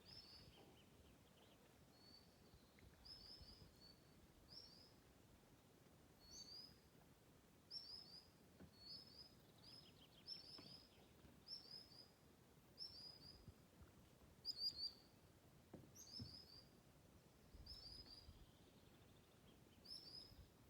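Faint bird song: short, high chirping phrases of two or three quick down-slurred notes, repeated about once a second.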